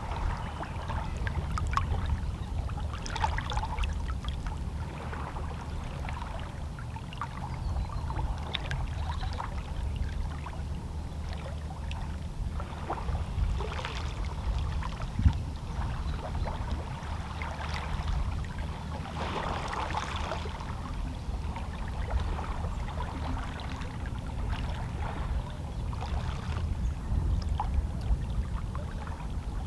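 Calm sea: small waves lapping and splashing against shoreline rocks in irregular washes over a steady low rumble, with one sharp tap about halfway through.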